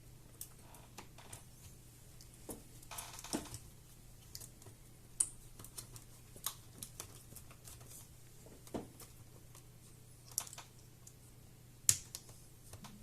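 Scattered small clicks and taps from hands and tools working on a laptop's plastic case and parts during disassembly, with a short scraping rustle about three seconds in.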